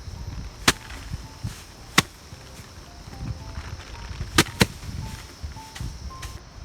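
Sheaves of harvested rice being beaten against a threshing surface to knock the grain loose: four sharp cracks, the last two in quick succession.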